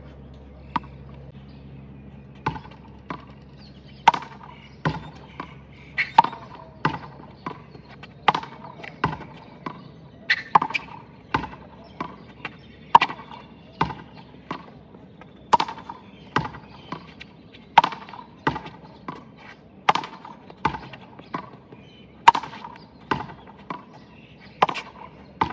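Handball rally in a solo drill: the small rubber ball is struck by hand, hits the wall and bounces on the court. It makes a steady run of sharp smacks, about two a second, each with a short ring.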